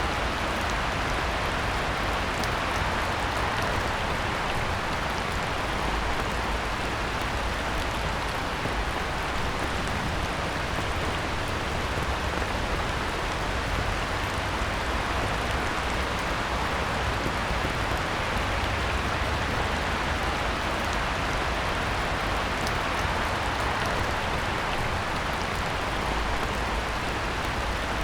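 Heavy rain falling steadily on a pond: a dense, even hiss of rain with faint scattered drop ticks in it.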